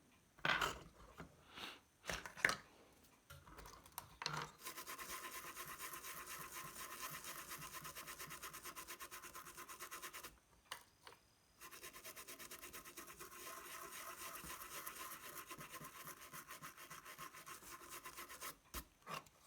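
Brush scrubbing a circuit board with thinner to clean off rosin flux residue: fast back-and-forth strokes in two long spells, with a short break about ten seconds in. A few light handling knocks come first.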